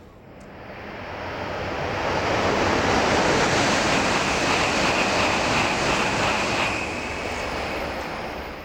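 An N700-series Shinkansen passing through a station at high speed: a rushing noise that builds over about two seconds, holds with a faint high whine, then dies away near the end.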